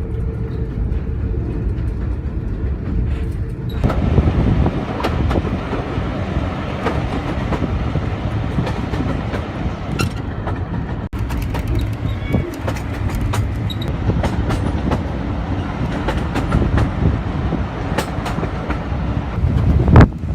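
Heritage steam railway carriage running along the line: a steady rumble with wheels clicking over the rail joints. There is a louder burst near the end.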